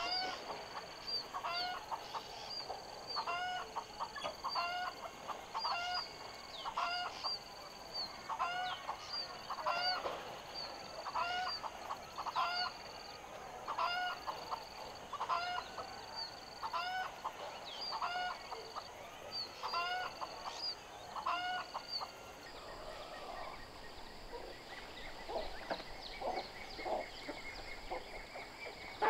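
A bird calling over and over, one short call about once a second, above a steady high whine. The regular calls stop a little over 20 seconds in, and fainter, irregular calls follow.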